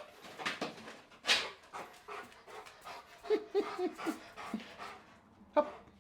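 A Rottweiler panting in quick, short breaths, with a sharp noise about a second in and a few short falling whines about halfway through.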